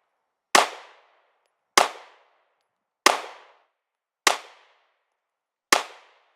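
Smith & Wesson M&P Shield 9mm pistol firing five shots a little over a second apart, each a sharp crack with a short echo trailing off. The pistol cycles every shot without a malfunction.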